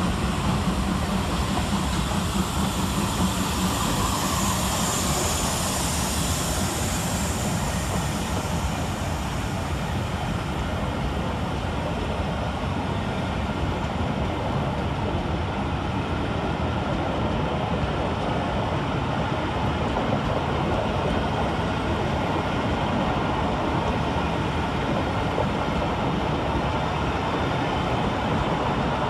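Steam-hauled train headed by LMS Jubilee class locomotives 45596 Bahamas and 45690 Leander rolling through the station: a steady rumble of wheels on track. A hiss rides over it for the first several seconds, then fades.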